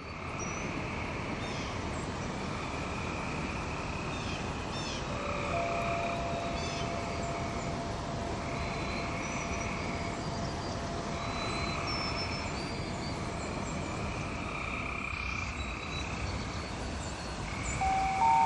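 Nature ambience: a steady animal chorus swelling and fading every few seconds, with short bird chirps over it. A single soft ringing tone holds for several seconds in the middle.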